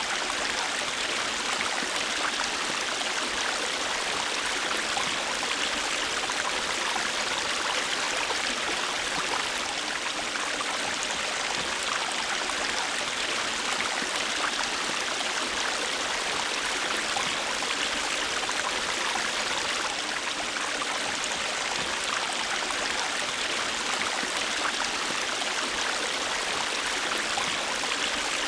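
River water flowing steadily: an even, unbroken rush with no distinct splashes or changes.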